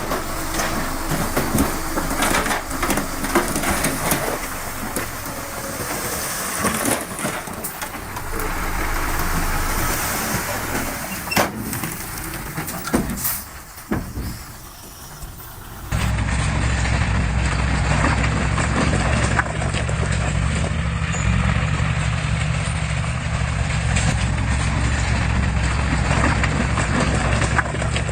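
Heavy diesel construction machinery working: engine running with scattered clanks and knocks, then, after an abrupt cut about halfway, a steady low engine running.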